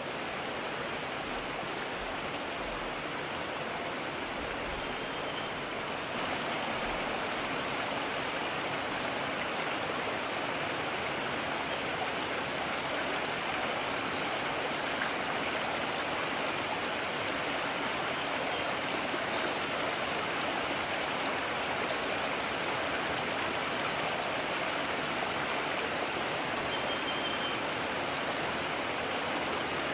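Mountain stream rushing steadily over rocks, a little louder after about six seconds. A few faint, short high peeps sound now and then above it.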